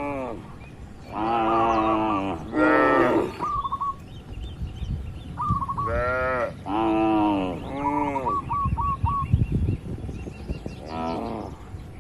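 Cattle mooing: about six drawn-out moos, each rising and then falling in pitch, coming in two groups with a pause of a couple of seconds between them. Short, high chirps sound between the moos.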